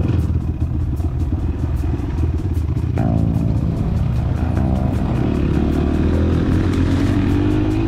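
Enduro motorcycle engine running, its pitch shifting about three seconds in and then climbing and holding high in the second half, over background music with a steady beat.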